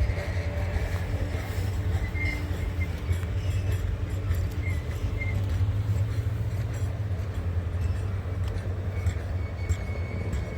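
Steady low rumble of a vehicle engine, with a few faint, brief high squeals.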